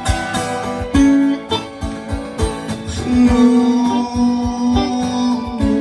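A song sung to acoustic guitar strumming; the voice holds one long note from about halfway through.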